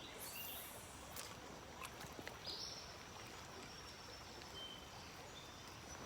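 Faint creek-side ambience: steady low water noise with a few soft clicks and several brief high-pitched chirps.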